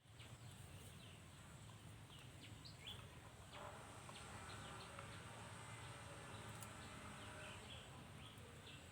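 Faint outdoor ambience with scattered short, high chirps from small birds, each dropping quickly in pitch.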